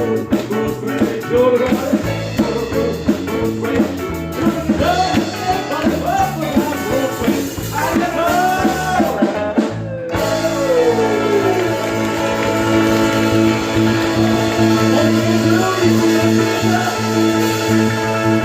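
Live rock band with a singer, guitars and drums. About ten seconds in, the singing drops out and the band holds sustained chords, with one note sliding down.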